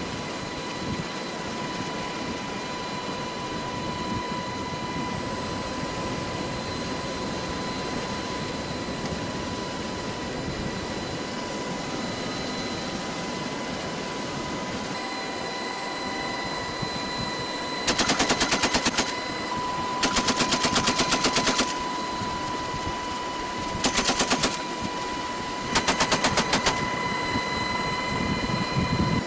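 Steady helicopter cabin noise, then four short bursts of rapid .50-calibre door-gun machine-gun fire in the second half, each lasting about a second or less.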